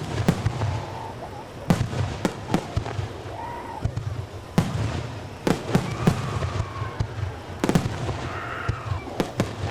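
Aerial fireworks bursting: a rapid, irregular series of sharp bangs, several close together, over a low rumbling background.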